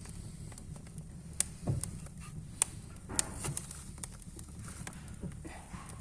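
Wood fire in a fireplace crackling, with irregular sharp pops and snaps over a low steady rumble; a few louder pops stand out in the middle.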